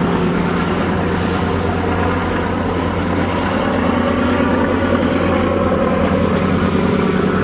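Steady low drone of a ship's engine, under a constant rush of wind and water noise on deck.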